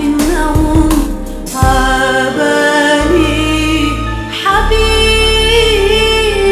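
A song with a female voice singing a melodic, held and bending line over a steady bass accompaniment.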